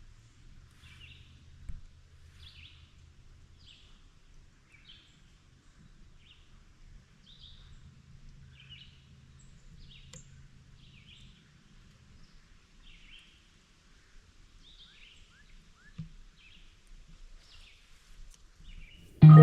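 A bird calling over and over in short notes, about one to two a second, with a faint low hum beneath for the first two-thirds. Guitar music starts just at the end.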